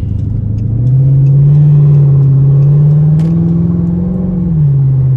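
Straight-piped Dodge Charger R/T V8 exhaust under hard acceleration, heard from inside the cabin: the note gets louder about a second in and climbs slowly in pitch, then drops back near the end.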